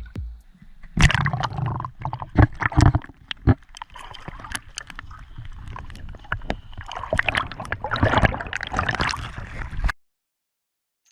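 Water sloshing, gurgling and splashing close to the microphone in uneven surges. It cuts off suddenly near the end.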